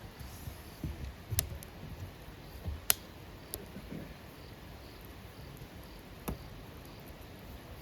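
Wood fire crackling in a fire pit: a few sharp, scattered pops, the loudest about three seconds in, with soft low knocks in the first half.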